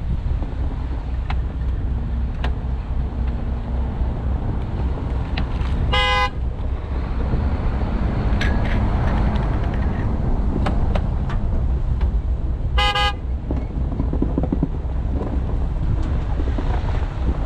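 Vehicle horn giving two short honks about seven seconds apart, over a steady low rumble of engine and wind.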